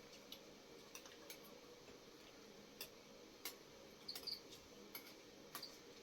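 Near silence, broken by scattered faint clicks and taps and a few short, high chirps about two-thirds of the way in.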